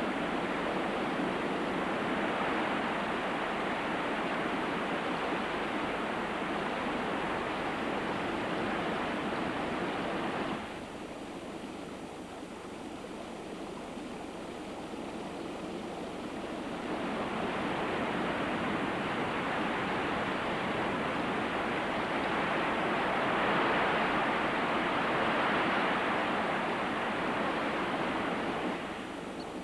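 Rushing floodwater in a river: a steady, even rush of water. It drops to a quieter rush about ten seconds in, comes back about six seconds later, swells louder, and drops away again just before the end.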